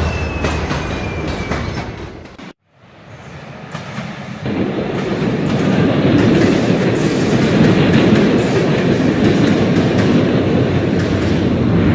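A train running on rails with a clickety-clack of wheels over the track. The sound fades and cuts out about two and a half seconds in, then comes back and runs on louder.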